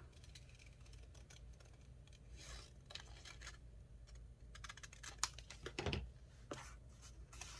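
Faint paper handling: light clicks, taps and rustles of cut paper pieces being moved about on a journal page, with one louder knock about six seconds in.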